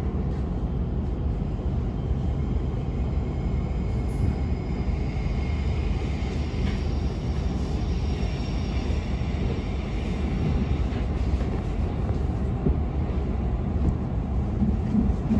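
Passenger train running, heard from inside the carriage: a steady low rumble, with a faint high whine for a few seconds about a third of the way in.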